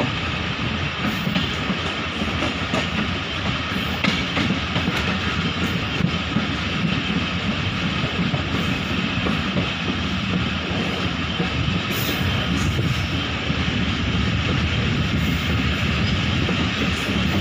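Passenger train coaches running at speed: a steady rush and rumble of wheels on the rails with a few faint clicks, heard from an open window at the side of the coach.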